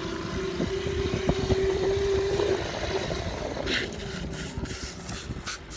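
Dirt bike engine running under way, its pitch climbing steadily for the first two or three seconds and then fading back.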